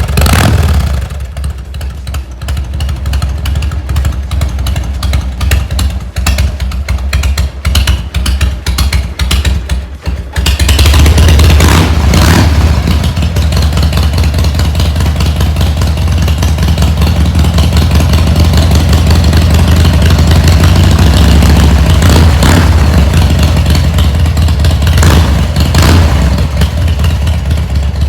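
Harley-Davidson Heritage Softail's Evolution V-twin engine running, first at a lumpy, pulsing idle. About ten seconds in it suddenly gets much louder and holds a steady, deeper rumble at higher revs, with a few short blips of the throttle.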